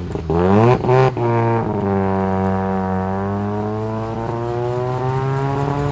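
Mazda RX-7 rotary engine revved in a few quick rises and falls, then held at one steady, even pitch as the car pulls away.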